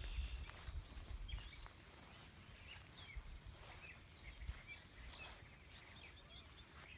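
Birds chirping faintly and scattered over a low hiss, with a few low thumps on the microphone in the first second or so.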